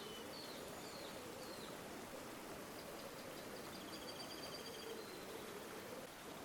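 River water flowing steadily, with small birds calling over it: a few short chirps in the first couple of seconds, then a rapid high trill near the middle.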